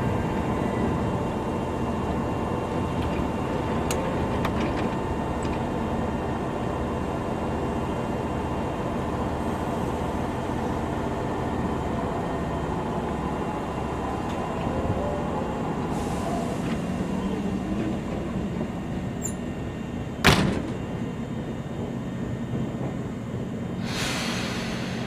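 Chichibu Railway 7500 series electric train standing at a station platform, its onboard equipment humming steadily with several held tones. About twenty seconds in comes one sharp, loud knock, likely the sliding doors closing, and a few seconds later a short hiss of air.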